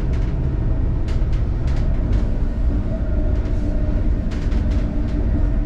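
Amtrak Acela train running, heard inside a car as a steady low rumble with a faint hum and scattered light clicks and rattles.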